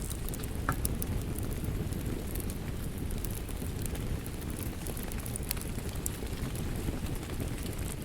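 Wood fire crackling with scattered sharp pops, mixed with steady rain over a low, even rumble.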